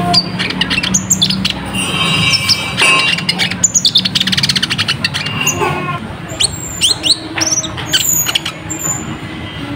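Brown-throated sunbird (konin, kolibri ninja) singing a dense, fast song of sharp chirps and rapid chattering trills, with thin high whistled notes in the second half.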